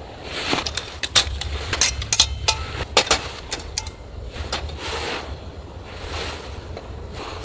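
Wind rumbling on the microphone, with a quick run of sharp clicks and snaps over the first few seconds, then softer swishing noise.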